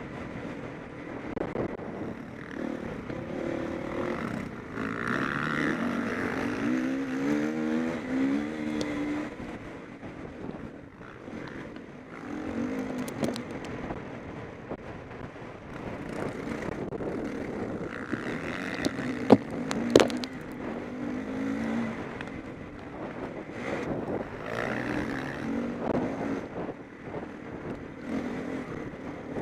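Motocross bikes racing, their engines revving up and falling away as they pass one after another, with two sharp knocks about two-thirds of the way through.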